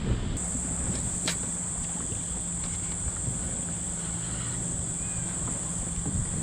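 Wind and water noise around a pedal kayak on choppy water. A steady high-pitched whine comes in about half a second in and holds, with a few light clicks.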